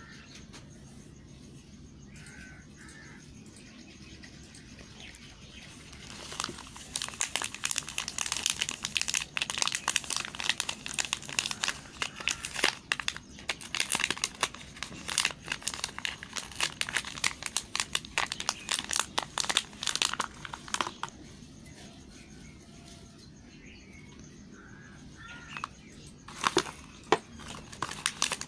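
Soap wrapper packaging crinkling and crackling as it is handled and torn open, a dense run of rapid crackles for about fifteen seconds after a quiet start, then a few sharp crackles near the end.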